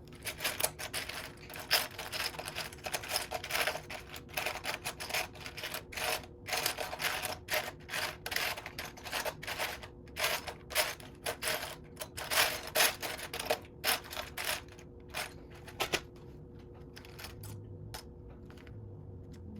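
Loose plastic Lego pieces clattering and clicking as a hand rummages through them, searching for a part. The rattling is dense and irregular, then thins out and stops about three-quarters of the way through.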